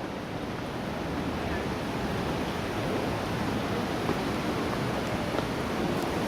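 Steady rushing outdoor background noise, even throughout, with no distinct events standing out.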